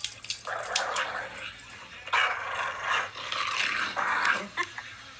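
A dog coughing: about four noisy, breathy coughs in a row, the loudest about two seconds in.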